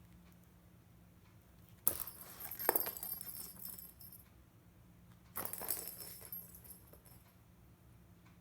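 A cat toy being batted about, making two bursts of light jangling: one about two seconds in that lasts about two seconds, and a shorter one about five and a half seconds in.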